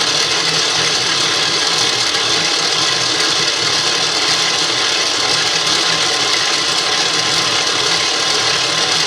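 GE Profile Smart Stand Mixer's motor running steadily at speed 5: a loud, even mechanical whir with a low hum under it.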